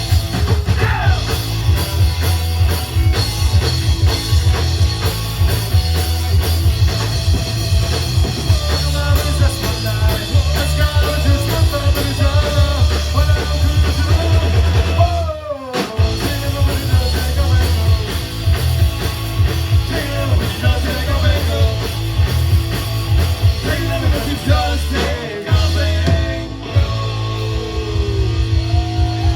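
Punk rock band playing live, with drum kit, electric guitars and bass going at full tilt. There is a short break about halfway through before the band comes back in.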